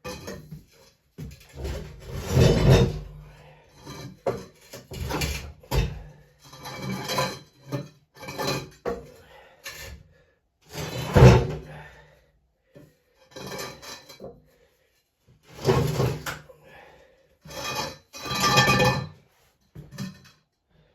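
A series of short scrapes, rubs and knocks, like heavy objects being shifted and slid about, each lasting up to about a second with brief pauses between.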